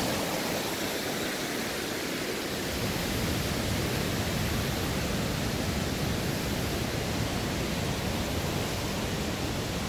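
Steady rushing of the Niagara River's fast water over rapids and small weirs, an even hiss, with a low rumble filling in a couple of seconds in.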